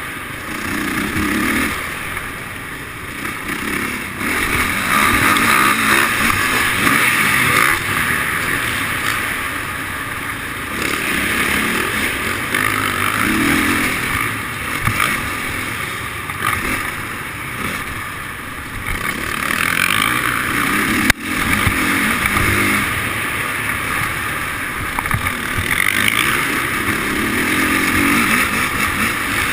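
Motocross dirt bike engines running on a track, their sound swelling and easing off every few seconds as the bikes accelerate and slow.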